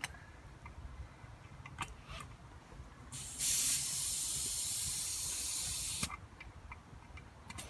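Compressed air hissing for about three seconds as the repaired tubeless car tire is inflated. It starts abruptly about three seconds in and cuts off sharply, with a few light clicks before it.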